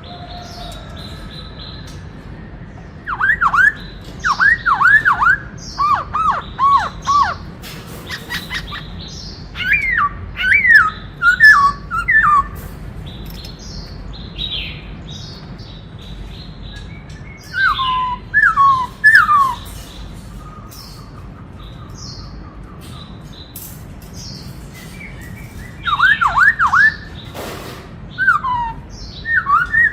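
Black-throated laughingthrush singing: phrases of loud, quick whistled notes that slur downward, delivered in several bursts of a few seconds with pauses between.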